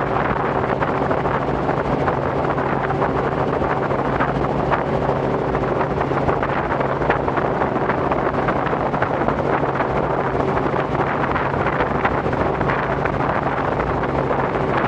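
Robinson R44 helicopter in steady cruise flight: a constant drone of engine and rotor with wind rushing over the microphone, holding a few unchanging low tones.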